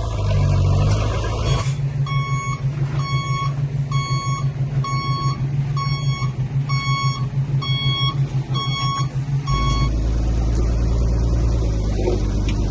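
A heavy construction vehicle's reversing alarm beeping about once a second, nine beeps in a row, over a diesel engine running. The beeps stop near the end and the engine gets louder.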